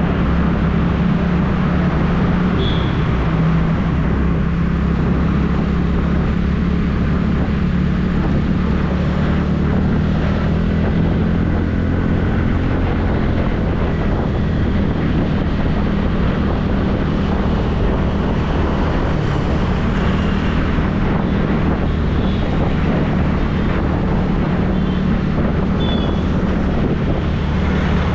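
TVS Ntorq 125 scooter's single-cylinder engine running at a steady cruise, with wind noise on the microphone.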